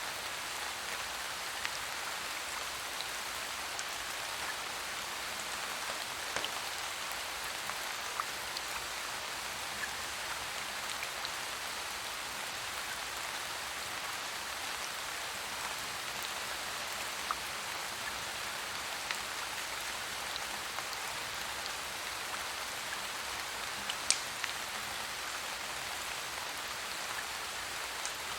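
Steady rain falling, an even hiss, with a few scattered sharp pops; the loudest pop comes about three-quarters of the way through.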